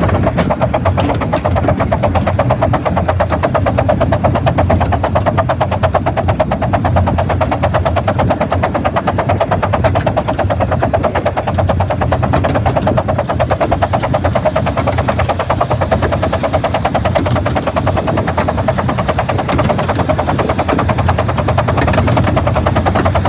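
15-inch-gauge miniature railway train running along the line: a loud, steady, fast rhythmic clatter.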